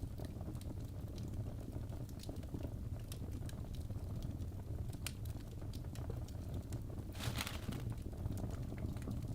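Wood fire in a fireplace crackling: irregular sharp pops and snaps over a steady low rumble of burning, with a brief louder burst of crackle about seven seconds in.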